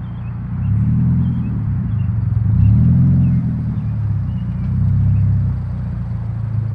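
Subaru BRZ's flat-four boxer engine through an unknown aftermarket exhaust, a low drone that swells three times under short bursts of throttle, the middle one the loudest.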